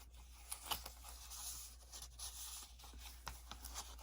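Faint rustling of paper pages in a handmade hardbound journal being handled and turned, with a few soft taps and clicks.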